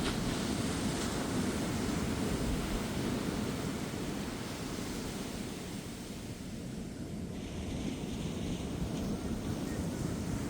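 Ocean surf breaking and washing on a beach, a steady low rush that eases about halfway through and swells again near the end, with some wind on the microphone.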